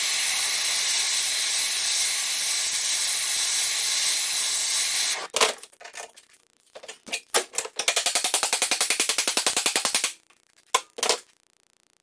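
MIG welder arc running on steel: a steady hiss for about five seconds, then it stops. A few short tack bursts follow, then a bead with a fast, even crackle of about eight pulses a second, ending in two brief bursts.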